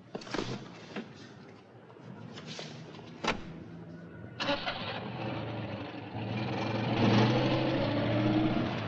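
Citroën Dyane's air-cooled flat-twin engine starting about four seconds in after a few clicks, then running and getting louder.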